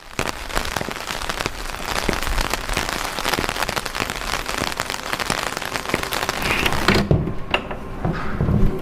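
Rain falling, a dense hiss dotted with many separate drop hits. About seven seconds in, the hiss thins and dulls, and a few low thumps follow.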